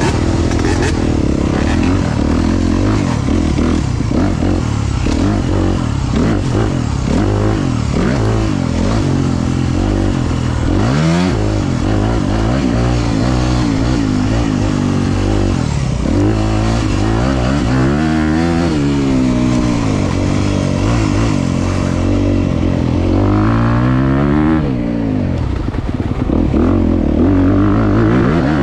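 Honda CRF250 four-stroke motocross bike engine, heard from on the bike, revving up and dropping back again and again as it is ridden around a dirt track and shifted through the gears.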